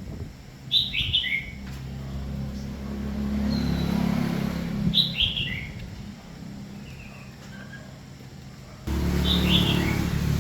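A bird sings the same short, falling chirp phrase three times, about four seconds apart. A low mechanical hum runs under it, swelling in the middle and stepping up suddenly near the end.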